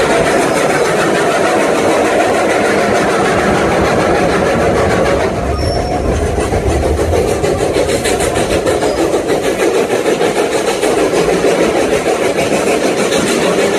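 Steam-hauled train running, a steady loud rumble and rattle. A low rumble comes in about halfway through, followed by a regular pulsing of a few beats a second.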